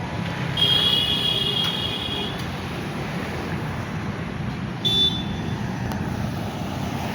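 Road traffic passing in the rain, a steady rushing noise. A vehicle horn sounds a long high blast about half a second in and a short one at about five seconds.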